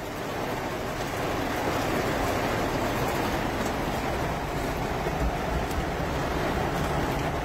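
Heavy rain falling on a car's roof and windows, heard from inside the cabin: a steady, dense rush that gets a little louder about a second in.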